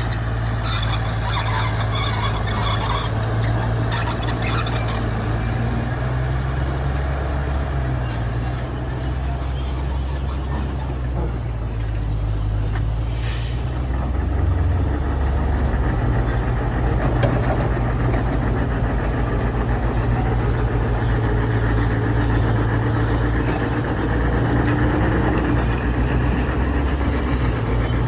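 Heavy diesel engine running steadily, with metallic rattling in the first few seconds and one short burst of hissing air about halfway through.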